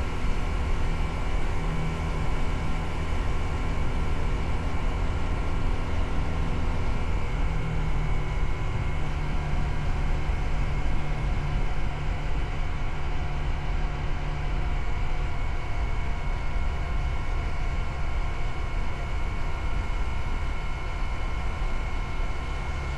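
Motorcycle engine running steadily under way, over a continuous low rumble.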